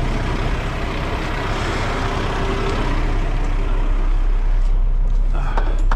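Heavy truck running with a steady low hum and an even rush of noise, the higher part of the rush thinning out near the end.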